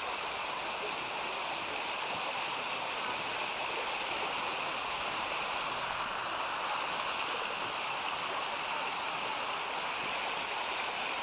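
Steady rushing of a mountain creek's water cascading over its falls and rapids.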